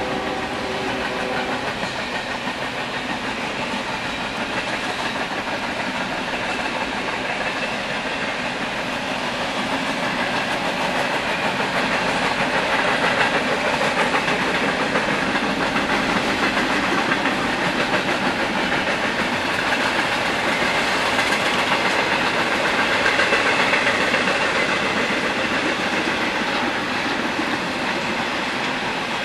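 Intermodal freight train cars rolling past, a steady rumble and clatter of steel wheels on the rails, swelling a little in the middle.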